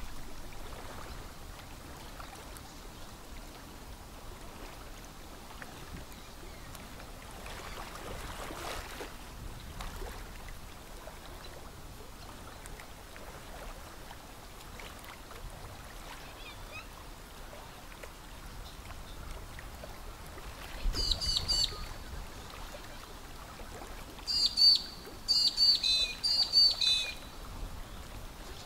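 A bird calling in quick, high chirps: one short run about three quarters through, then a longer run of repeated chirps near the end, over a faint steady outdoor hiss.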